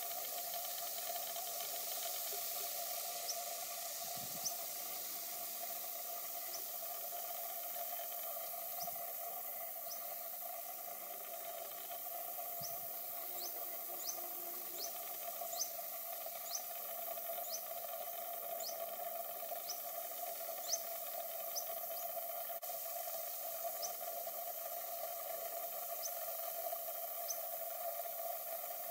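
A small bird gives short, high, rising call notes over a steady hiss. The notes come scattered at first, then about one to two a second through the middle, thinning out again near the end.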